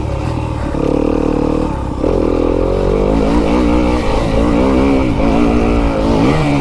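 Fantic enduro dirt bike engine being ridden hard, its pitch holding steady, then dropping about two seconds in and rising and falling repeatedly with the throttle.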